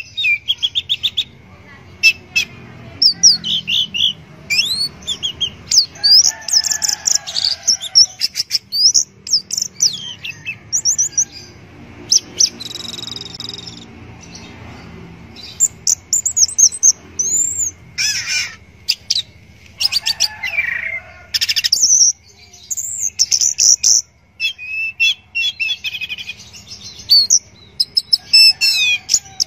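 Orange-headed thrush (anis merah) singing a long, varied song of quick whistled phrases and trills mixed with sharp clicks, broken by short pauses.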